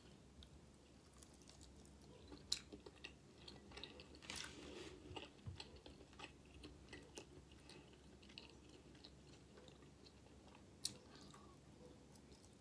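Faint close-up chewing of a breakfast sausage link: soft wet mouth clicks scattered throughout, with a few sharper clicks, the clearest near the end.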